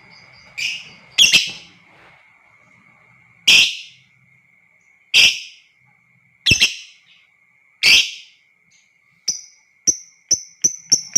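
Lovebirds calling: six loud, harsh single screeches a second or two apart, then near the end a run of short chirps that speeds up into a chattering trill. A faint steady high tone runs underneath.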